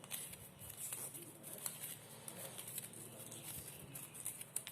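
Faint rustling and light crinkling of a strip of magazine paper being rolled up by hand to curl it, with a few small scattered clicks.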